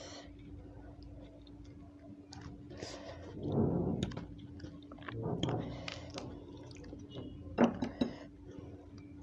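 Close-miked chewing of raw vegetables, wet mouth sounds with scattered crunches and clicks. The loudest crunch comes at about seven and a half seconds in.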